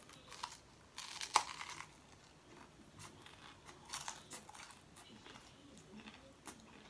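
Biting and chewing a pizza slice topped with raw cabbage and crisps: crisp crunches, clustered about a second in and again around three to four seconds, with a few more near the end.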